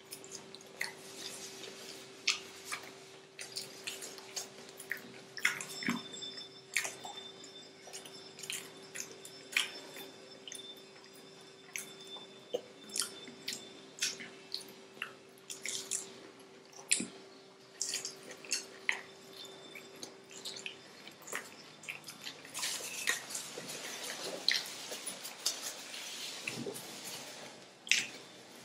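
Close-miked eating of fried, breadcrumb-coated chicken cheese rolls: irregular sharp crunches and wet mouth clicks and smacks as people bite, tear and chew.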